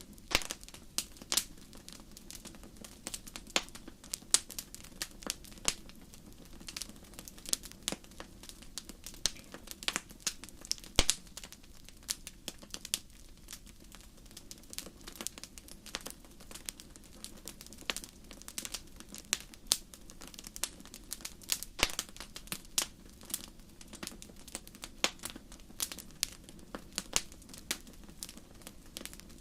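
Wood campfire crackling, with sharp irregular pops and snaps several times a second over a low steady hiss of the burning fire.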